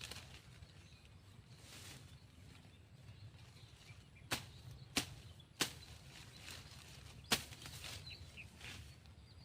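Four sharp, single strikes or knocks, irregularly spaced, starting about four seconds in, over a quiet outdoor background.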